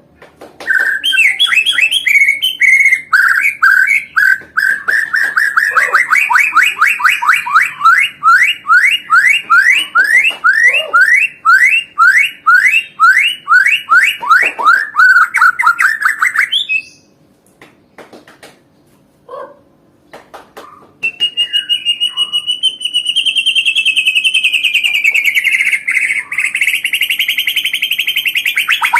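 Recorded white-rumped shama (murai batu) song played as a masteran track: a long run of repeated rising whistled notes, about two or three a second. A pause of a few seconds follows. Then comes a fast, continuous high trill with thin, very high notes above it.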